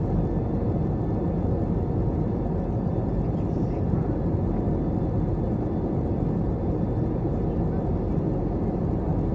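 Steady low rumble in the cabin of an Airbus A321 airliner: engine and airflow noise heard through the fuselage, even in level with no distinct events.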